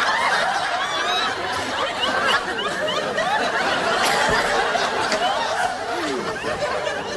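Studio audience laughing: many people chuckling and laughing at once, steadily throughout.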